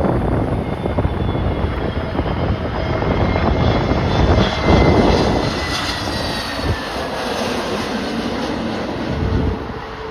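Jet airliner on approach passing close by, its engine whine falling slightly in pitch and loudest about halfway through, with gusty wind buffeting the microphone.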